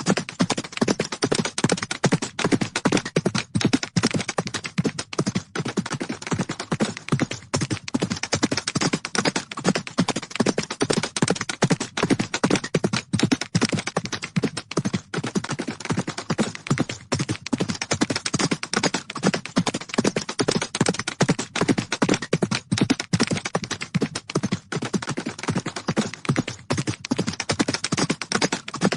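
Horses galloping: a dense, unbroken run of hoofbeats, many strikes a second, keeping an even pace.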